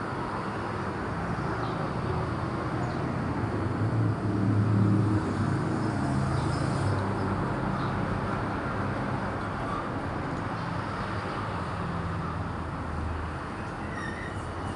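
Low steady motor rumble with a faint hum, swelling about four seconds in and slowly easing off.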